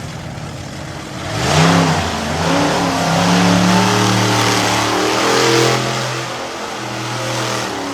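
Monster truck engine revving hard: it climbs sharply about a second in, then holds at high revs with the pitch swinging up and down, easing off slightly near the end.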